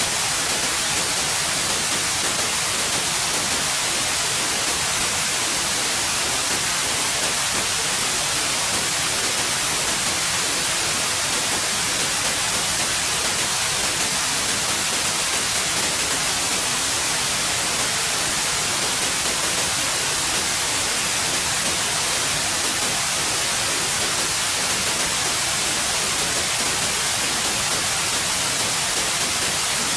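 Steady, unchanging white noise: an even hiss, strongest in the treble.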